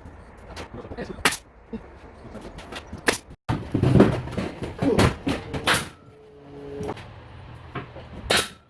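Pneumatic nail gun firing into wooden louver boards: about four loud, sharp cracks a second or more apart, with lighter knocks of boards being handled between them.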